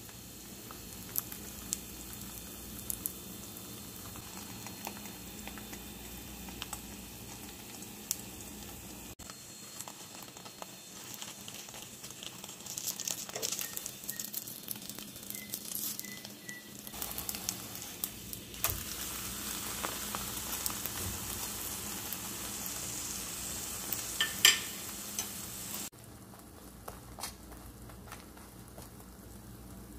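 Paratha frying in hot oil in a non-stick pan: a steady sizzle with scattered sharp crackles and pops, louder in the middle stretch.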